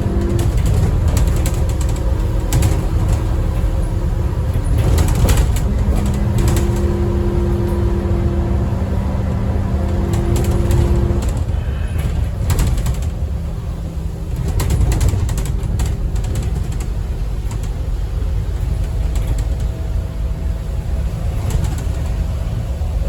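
Inside a moving Scania N230UD double-decker bus: the engine runs with a steady low rumble, and steady whining tones hold for several seconds before fading out about halfway through. Knocks and rattles from the bodywork come through repeatedly.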